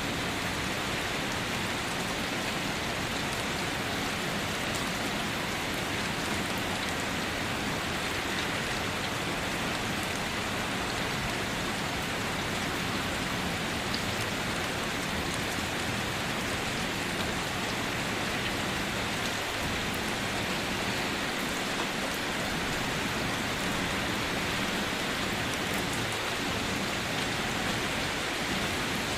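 Steady rain falling on surfaces, with scattered distinct drops.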